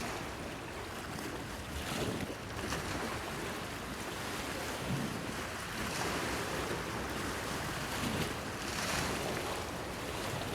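Small waves lapping and splashing against a breakwater pier, the wash swelling every few seconds with a few low slaps, and wind on the microphone.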